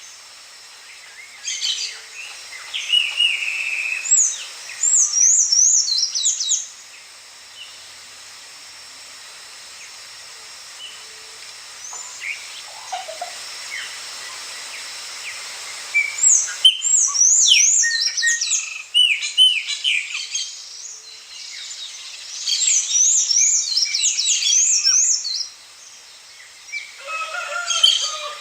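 A small songbird singing in bursts of a few seconds, each a quick run of high, sweeping chirps and warbles, with a long lull in the middle where only a few faint chirps are heard.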